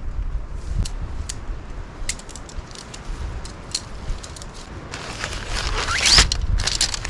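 Camping gear being handled and packed: scattered clicks and light rattles, then louder rustling with a rising rasp about six seconds in, over wind buffeting the microphone.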